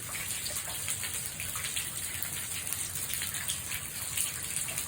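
Rain falling steadily, with many separate drops ticking through a constant hiss.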